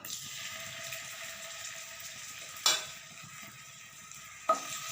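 Marinated chicken pieces frying in hot oil in a pan, sizzling steadily, with two sudden louder sounds, one about midway and one near the end, as more pieces go into the oil.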